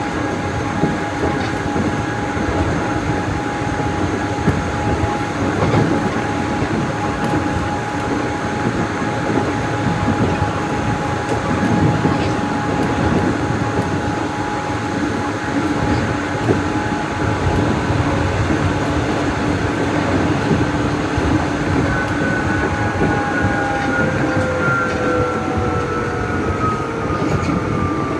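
Nishitetsu 600 series electric train running, heard from on board: a steady rumble with a constant whine. About two-thirds of the way in, the whine begins to fall in pitch as the train slows.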